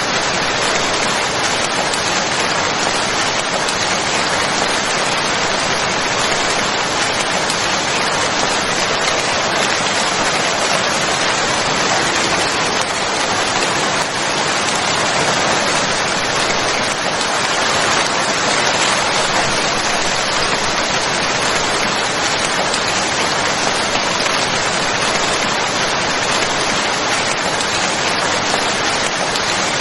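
Steady heavy rain falling, an even rushing hiss with no distinct drops standing out.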